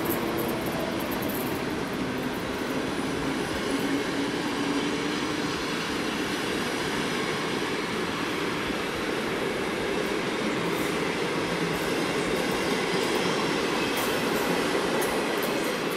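Passenger coaches of a departing electric-hauled train rolling past on the rails: a steady rumble of wheels on track.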